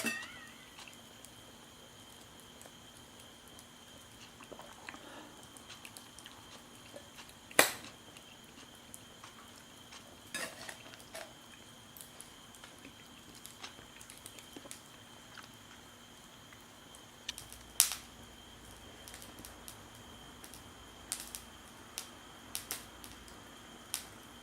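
Scattered light clicks and knocks, with a few sharper knocks standing out, like cookware or utensils being handled, over a faint steady hum.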